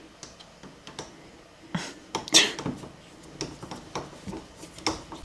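A newly built wooden door being worked shut: scattered light knocks and clicks, the loudest about two seconds in.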